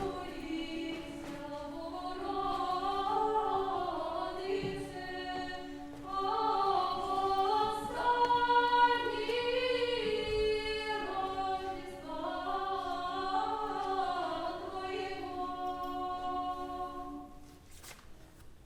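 A choir singing early Russian music a cappella: a melody moving in phrases above a steady held low drone. The singing stops about a second before the end.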